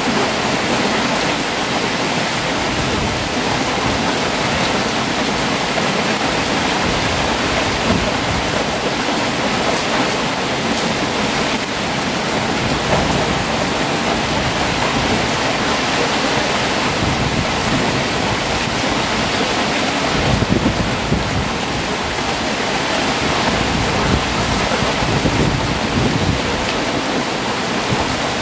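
Heavy rain pouring steadily, with a low rumble of thunder swelling about twenty seconds in.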